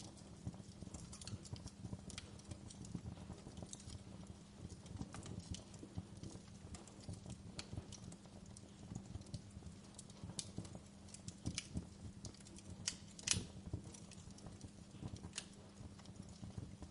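Wood fire crackling in a fireplace: irregular sharp pops and snaps over a steady low rumble, with one louder pop about three quarters of the way through.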